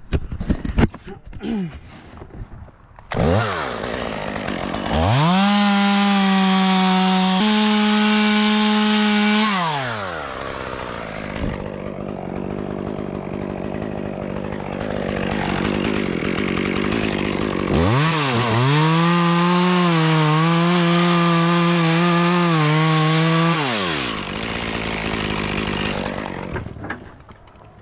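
Two-stroke chainsaw run up to full throttle twice, each time for about five seconds while cutting, dropping back to idle in between and after the second cut. Near the end it falls quiet.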